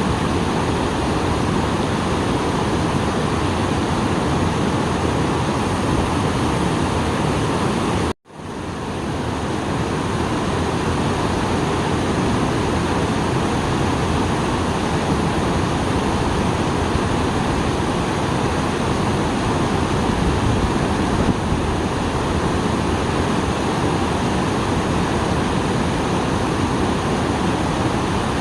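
Small waterfall on a stream running high after rain, a steady, dense rush of falling water. About 8 seconds in the sound cuts out for a moment and fades back in, an edit splice in the recording.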